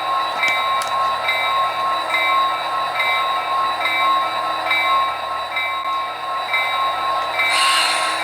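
HO scale model diesel locomotive's digital sound decoder ringing its bell at a steady beat, about one stroke every three-quarters of a second, over the idling engine sound. A short hiss sounds near the end.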